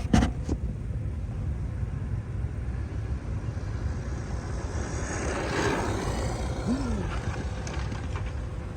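Steady low outdoor rumble, with a vehicle passing that swells and fades about five to six seconds in.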